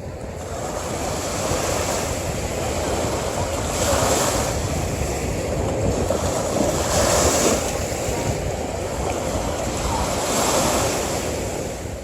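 Sea waves breaking on a beach: a steady wash of surf that swells three times, about every three seconds.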